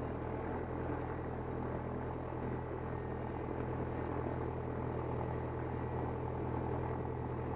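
Cessna 172N's four-cylinder Lycoming engine and propeller running steadily at low power, heard from inside the cockpit.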